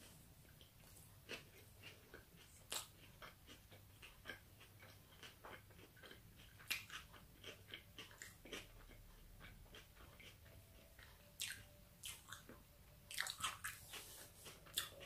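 Close-miked chewing of a chicken fajita wrap: soft, irregular wet mouth clicks and crunches, with a quicker run of louder clicks near the end.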